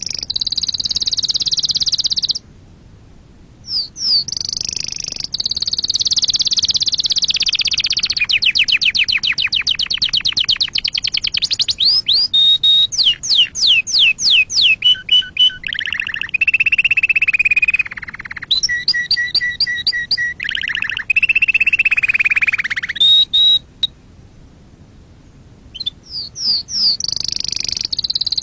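Domestic canary singing long song phrases of fast high trills and rapid repeated notes that change pitch from phrase to phrase, with two brief pauses, one a couple of seconds in and one near the end.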